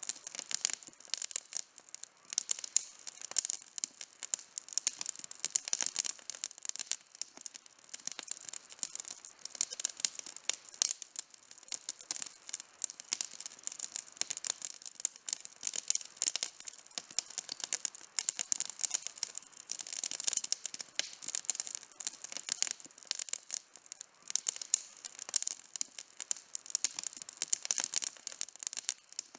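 Outdoor wood campfire crackling: a dense, irregular run of sharp snaps and pops, with no break.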